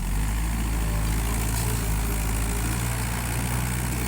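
Tractor diesel engine running steadily with a deep, even note.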